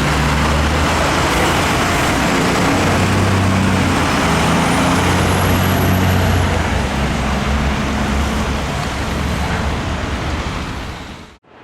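Heavy diesel fire appliance engine running steadily with a loud rushing noise over a low hum. A faint high whistle rises and falls about halfway through, and the sound cuts off abruptly just before the end.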